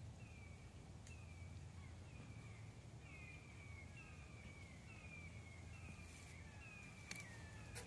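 Birds calling, faint: many short calls that slide downward in pitch, repeating and overlapping, over a steady low rumble. A couple of sharp clicks come near the end.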